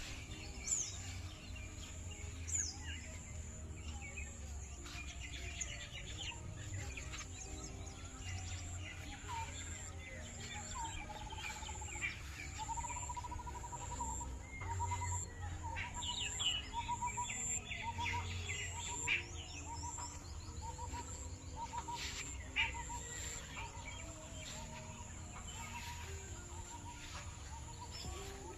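Several birds chirping and calling in short bursts over a soft background of held musical chords. About twelve seconds in, a lower call starts repeating as a short rapid trill every second or two.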